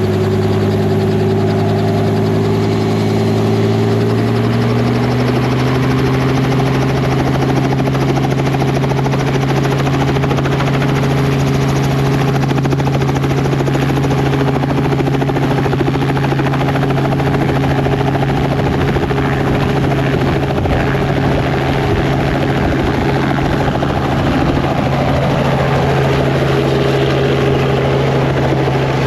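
Helicopter running loud and steady, its pitch rising a little over the first few seconds as it powers up to lift off.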